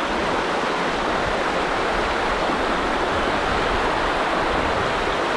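Steady rush of fast-flowing river water, a constant loud roar of rapids.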